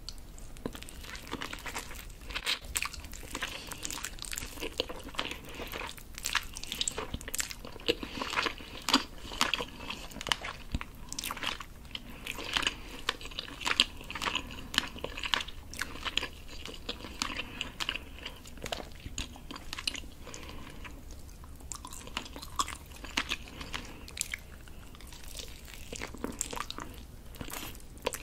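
Close-miked eating sounds of a rotisserie chicken drumstick: biting into the roast skin and meat, then chewing with many small crackly clicks. There is a quieter stretch about three quarters of the way through.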